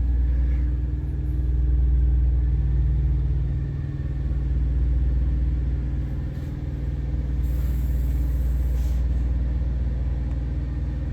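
Thermo King APU's small diesel engine running steadily, a low rumble with a steady hum heard from inside the truck's cab. A brief high hiss comes about two-thirds of the way through.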